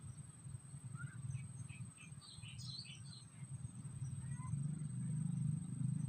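Small birds chirping: a quick run of short high calls between about one and three and a half seconds in, and a couple more a second later. Under them runs a steady low rumble and a thin, steady high whine.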